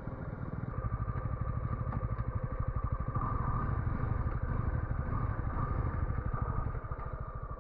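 Single-cylinder 250 cc motorcycle engine running steadily while the bike is ridden, with a fast, even firing pulse.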